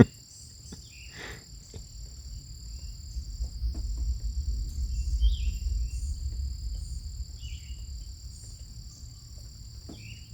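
Steady, high-pitched chorus of insects such as crickets, with a low rumble swelling through the middle and a few brief chirps.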